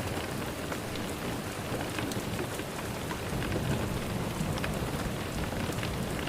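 Steady rain falling, with many small drop ticks and a soft low rumble of thunder swelling in about halfway through.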